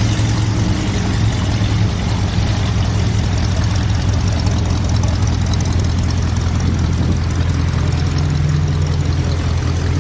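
Classic car engines idling and running in slow cruise traffic: a steady, loud low engine note, with a slightly higher tone joining about eight seconds in.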